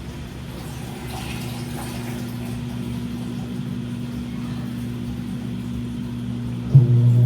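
Washing machine running a wash cycle: a quieter steady hum with a faint swish of water early on, then a click near the end as the motor starts up again and the hum turns louder.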